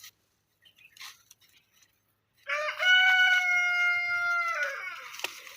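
A rooster crowing once: a single drawn-out call of about two and a half seconds, starting a little over two seconds in, rising at the start, holding steady and falling away at the end.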